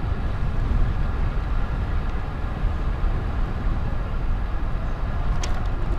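Steady low rumble of wind on the microphone and road noise from a moving bicycle, with one short click about five and a half seconds in.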